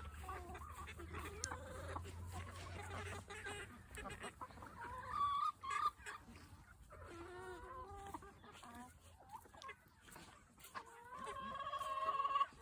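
Chickens clucking and calling at irregular moments, with a longer drawn-out call near the end.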